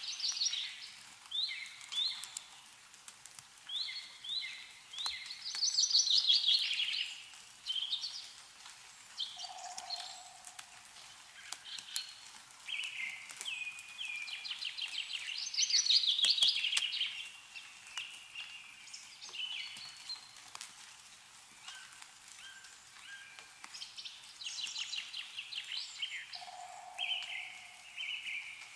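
Songbirds singing: a loud, fast-trilled song phrase comes back about every ten seconds, with shorter calls between, over faint scattered ticks of meltwater dripping from snowy trees.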